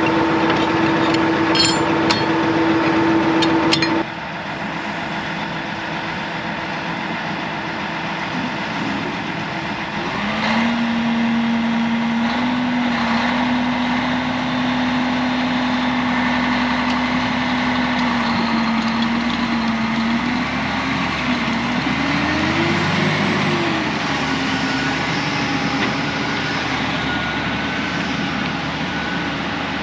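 Heavy diesel engines running under load during a recovery pull. The sound drops suddenly about four seconds in. A steady engine note picks up again around ten seconds and briefly rises and falls in pitch, revving, past the twenty-second mark.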